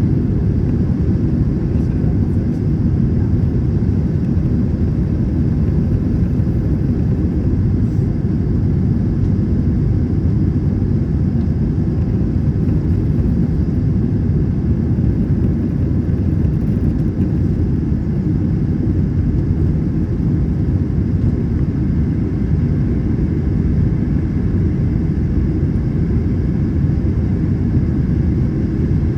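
Steady low roar inside an Airbus A321 passenger cabin in flight: engine and airflow noise, unchanging throughout.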